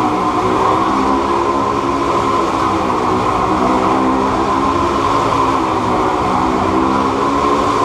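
Motorcycle engine running at a steady, high speed as the bike circles the wall of death.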